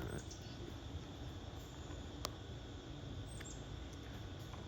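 Quiet outdoor ambience in steady rain, with a steady high insect drone. Two short, high, downward chirps sound near the start and after about three seconds, and a single sharp click comes about two seconds in.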